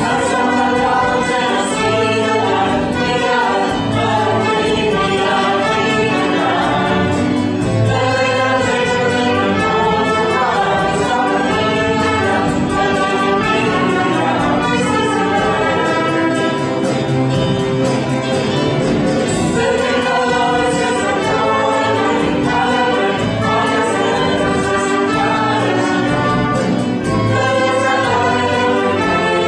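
A chorus of voices singing together over a live pit band or orchestra with brass, in a stage musical number.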